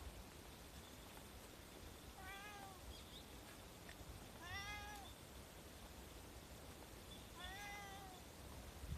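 A tabby calico cat meowing three times, a few seconds apart, each a short call that rises and falls in pitch.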